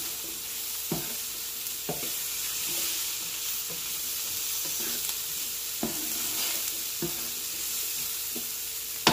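Diced potatoes, peppers and onions sizzling in a hot electric skillet while a silicone spatula stirs them, scraping and knocking against the pan about once a second.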